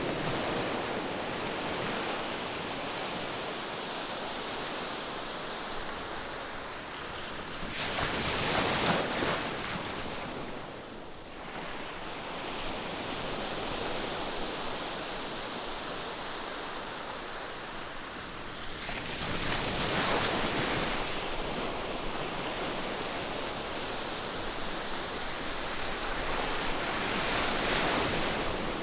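Ocean surf: a steady wash of waves, with louder breakers about eight, twenty and twenty-seven seconds in.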